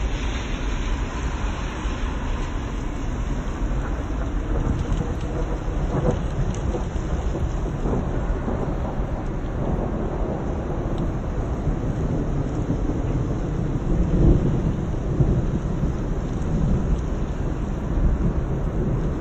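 Night thunderstorm: a steady rush of rain and wind under a low rumble of thunder, swelling louder about two-thirds of the way through.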